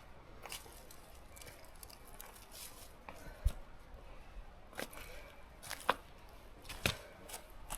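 A hiker's footsteps on the trail: irregular crunches and sharp clicks, a few louder steps or knocks from about halfway on.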